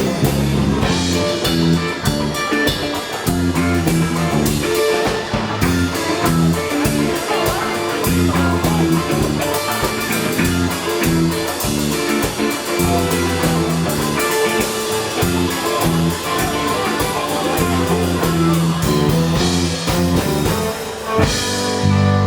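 A band playing a blues-rock number: guitar over bass and drum kit, with a steady beat.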